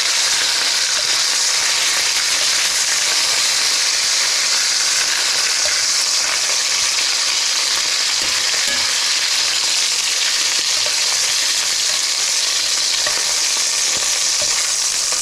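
Chicken pieces frying in hot rendered smoked pork fat, a steady loud sizzle.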